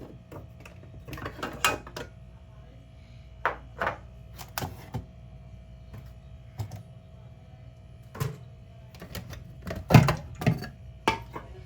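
Items from a fridge being handled and set down: a series of irregular clicks, knocks and clatters, the loudest about ten seconds in.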